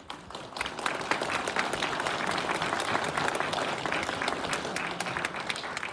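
Audience applauding, the clapping rising about half a second in and holding steady before tapering off at the end.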